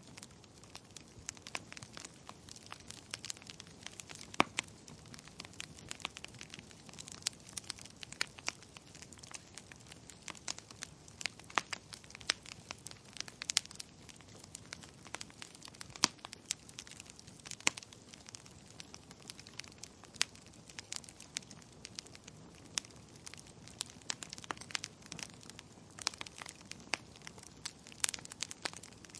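Wood fire crackling in a fireplace: irregular sharp pops and snaps, several a second and varying in loudness, over a soft steady hiss.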